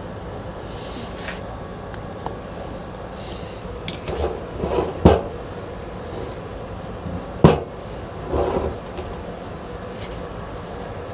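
Ceiling fan parts being handled during disassembly: a few sharp knocks and short clatters, the loudest about five and seven and a half seconds in, over a steady background hum.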